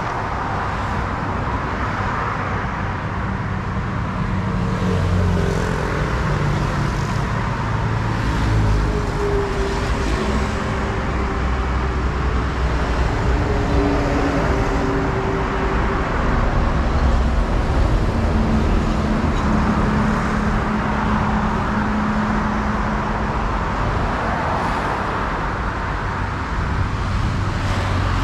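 Road traffic: motor vehicles running past with steady tyre and road noise. In the middle stretch the low engine notes of one or more passing vehicles rise and fall.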